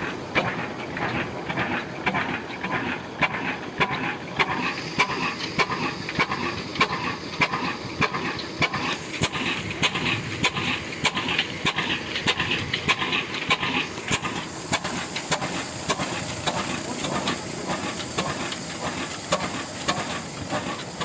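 Old single-cylinder Ruston Hornsby-type diesel engine running steadily at slow speed, its exhaust beating about twice a second, over a steady hiss that grows stronger about two-thirds of the way through.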